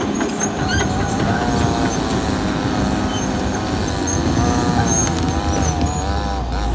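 Caterpillar D6R XL bulldozer's diesel engine running under a steady low rumble, with a wavering squeal from the machine rising and falling over it.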